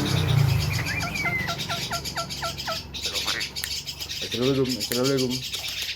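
Javan myna calling a quick run of about nine short, falling whistled notes, then a single lower falling note. Two voice-like syllables follow near the end. Constant high chirping of other small birds runs underneath.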